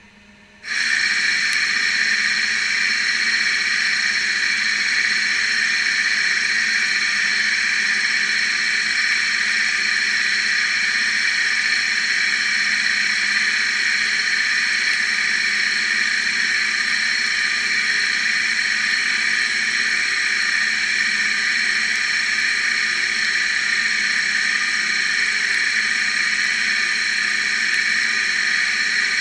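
CNC lathe running while turning stainless steel: a steady hiss with several high-pitched whining tones, starting abruptly under a second in and holding an even level.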